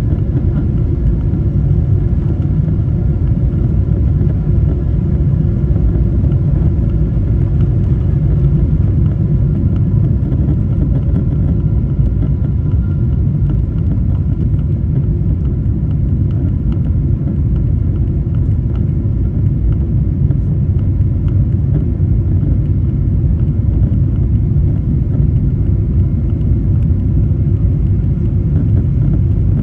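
Jet airliner cabin noise: a steady, loud low rumble from the engines and airflow, with faint steady whining tones above it.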